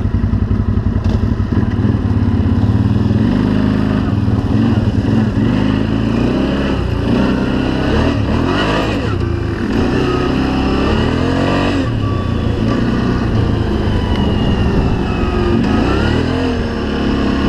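Off-road vehicle engine under way, its revs rising and falling several times with the throttle.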